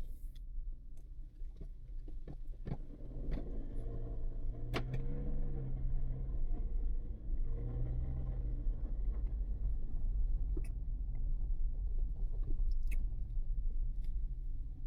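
Car engine running with a steady low rumble, its note rising and falling between about four and nine seconds in, with a few sharp clicks in the first few seconds.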